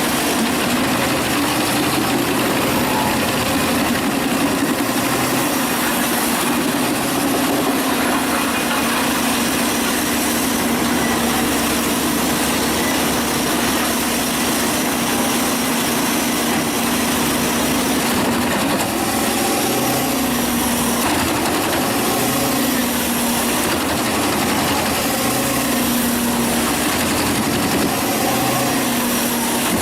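Wood chipper engine running steadily, a constant low hum under a dense mechanical noise that pulses somewhat in the later half.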